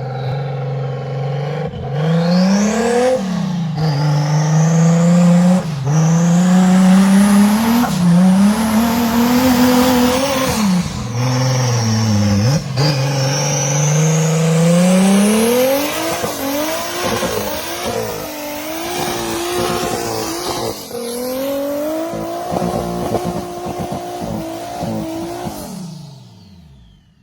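Toyota 2JZ inline-six engine in a Jeep Cherokee XJ revving hard again and again, its pitch climbing and dropping with each push of the throttle. In the later part it holds steadier revs amid knocks and clatter, then fades out near the end.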